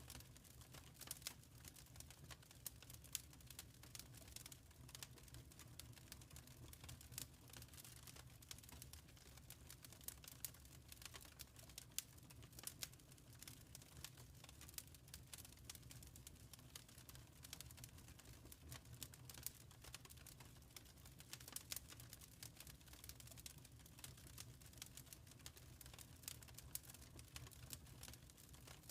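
Quiet wood fire crackling: irregular small pops and snaps, many each second, over a low steady rumble.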